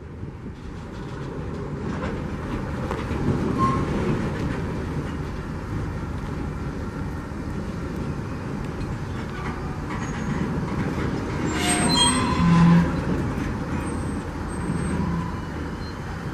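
A train rolling past, a steady rumble of wheels on rail that builds over the first few seconds, with a brief high metallic squeal and clatter about twelve seconds in.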